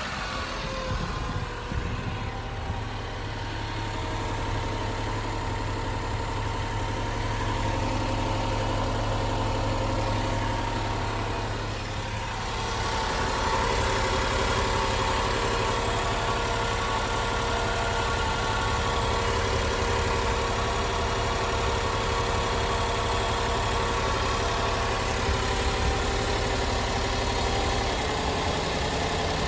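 1997 Honda Acty kei truck's 656 cc three-cylinder engine idling steadily. Its note shifts slightly about twelve seconds in.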